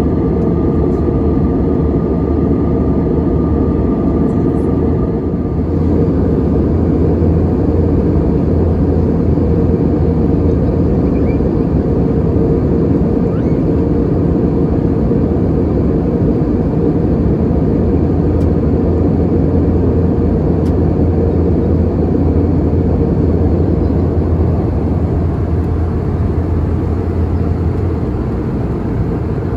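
Steady cabin noise of an Airbus A320-200 in flight: the engines and airflow make a constant low noise, with a thin high tone that fades out about five seconds in.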